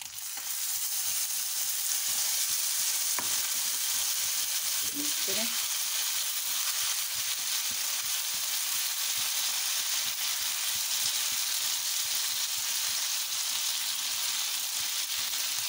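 Chicken livers and a wet tomato masala sizzling steadily in hot oil on a tawa. The sizzle swells in the first second as the masala goes onto the pan, and a utensil stirs through it, with a single light click about three seconds in.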